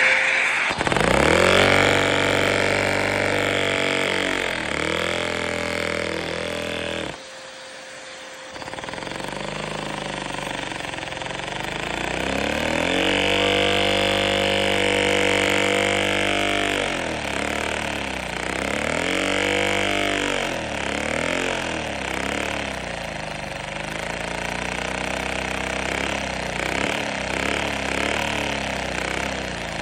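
Lego two-stroke engine running, its speed rising and falling. It cuts out for about a second and a half, about seven seconds in, then picks up again.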